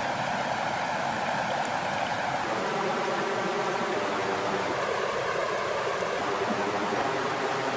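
Water flowing in a steady, even rush, like a stream.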